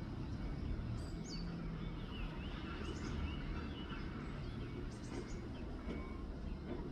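Steady low background rumble, with scattered short bird chirps and call notes over it, most about a second in, around two to three seconds in, and again near five seconds.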